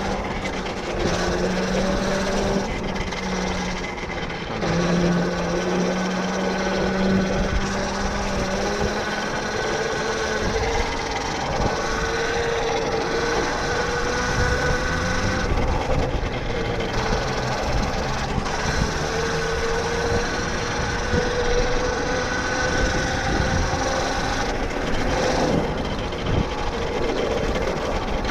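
Tuttio Soleil 1 electric dirt bike under way: the electric motor's steady whine over a continuous rushing noise, the whine rising slowly in pitch through the second half.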